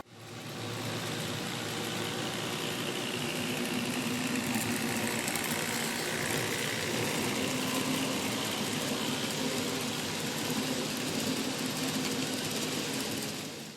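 A steady engine-like running noise with a faint wandering whine, cutting in suddenly and dropping away at the very end.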